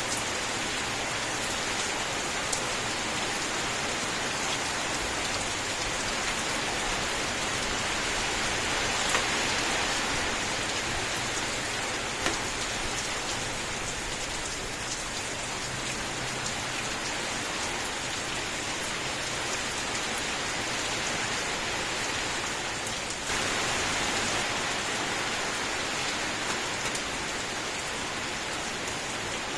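Rain falling steadily: a dense, even hiss with scattered sharp ticks of single drops. It gets slightly louder about three-quarters of the way through.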